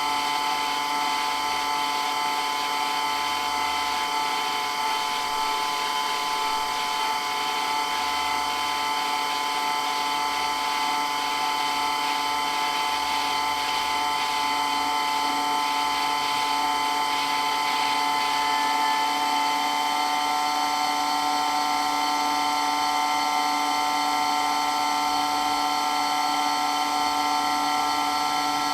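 Water pump for a water blaster running steadily with a loud, high whine made of several steady tones; the pitch shifts slightly about two-thirds of the way in.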